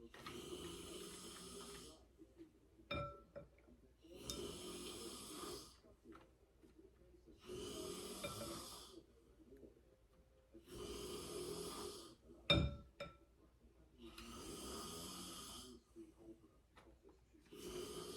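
Slow, regular breathing close to the microphone, one breath about every three and a half seconds. A few light clicks of kitchen utensils come in between the breaths.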